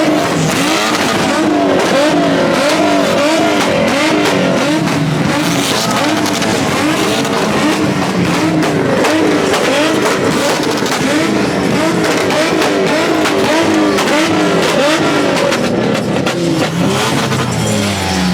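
Car engine revved hard over and over, its pitch climbing and dropping about twice a second, loud throughout. Near the end a deeper engine note drops away.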